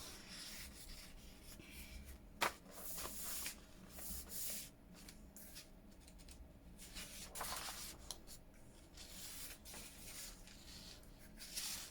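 Sheets of paper handled and slid about on a work surface: faint, intermittent rustling and rubbing, with one sharp tap about two and a half seconds in.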